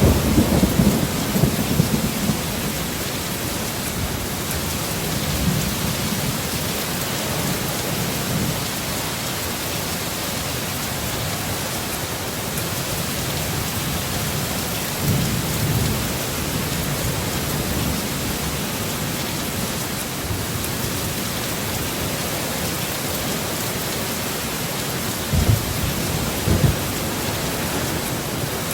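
Heavy storm rain falling steadily, with low rolls of thunder swelling at the start and twice more through the middle, and two short, sharp low thumps near the end.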